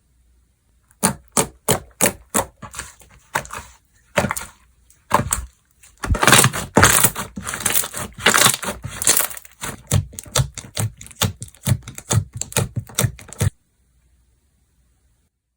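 Slime being played with by hand, giving sharp clicking pops, first spaced apart and then thickening into steady crackling before it stops.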